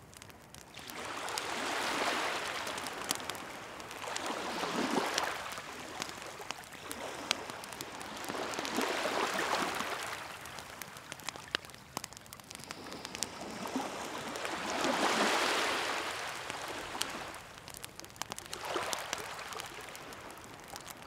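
Sea waves washing onto the shore, five slow swells that rise and fade a few seconds apart, over a wood campfire crackling with scattered sharp pops.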